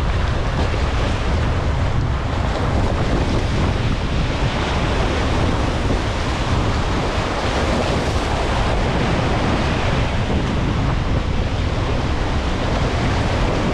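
Wind buffeting the microphone over the steady wash of surf at an ocean inlet, with no break or single event standing out.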